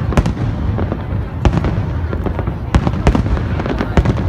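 Fireworks display: an irregular run of sharp bangs and pops over a continuous low rumble of booms.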